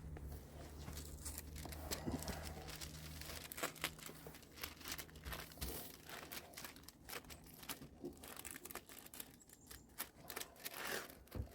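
Masking tape and masking plastic being handled: crinkling and rustling with sharp tearing and peeling clicks, over a low steady hum that fades out about halfway through.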